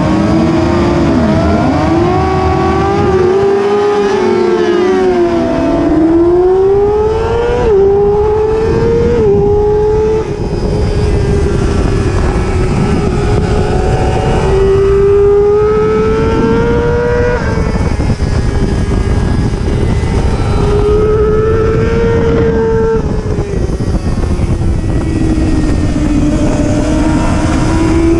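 Superbike racing motorcycle engine at high revs. Its pitch climbs and drops sharply at two quick upshifts, holds high with slow climbs, then dips and rises again, over a steady rush of wind noise.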